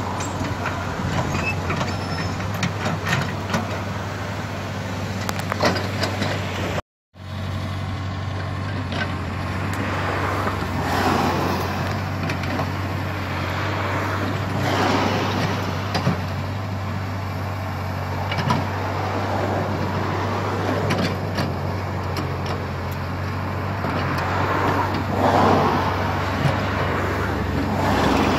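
Komatsu PC75 hydraulic excavator's diesel engine running steadily while the machine works, with a surge of hydraulic and digging noise every few seconds and scattered knocks. The sound cuts out completely for a moment about seven seconds in.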